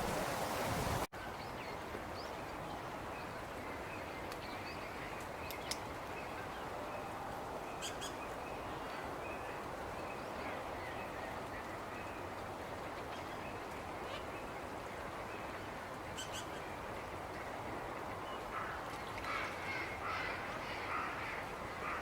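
Flock of tundra swans calling faintly over a steady background hiss, the calls coming thicker near the end. Wind buffeting on the microphone cuts off abruptly about a second in.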